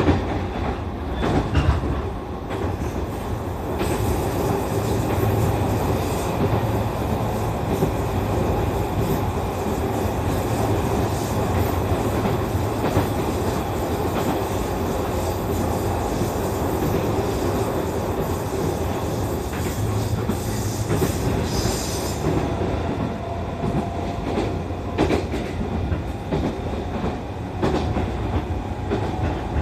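E531 series electric multiple unit running on the Mito Line, heard from inside the carriage: a steady rumble with scattered short clicks from the wheels over the track, and a brief high squeal about twenty-one seconds in.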